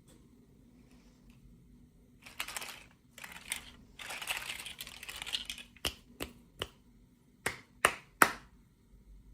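Hands handling small plastic toy packaging and pieces: a few seconds of rustling and crinkling, then six sharp plastic clicks, the last two loudest.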